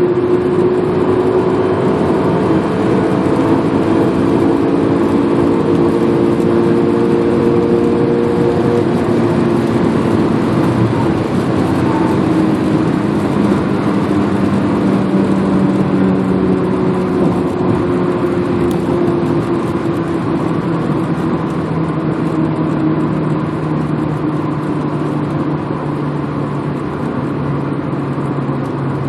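Honda H22A four-cylinder engine in an Accord, its note falling slowly and steadily in pitch as the car slows, over a steady haze of road and wind noise.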